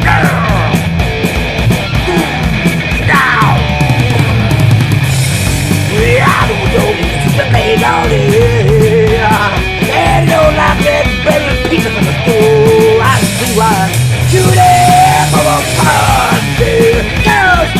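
Loud punk-rock instrumental with fast, driving drums and a heavy low end. A lead line slides down in pitch again and again and wavers on held notes.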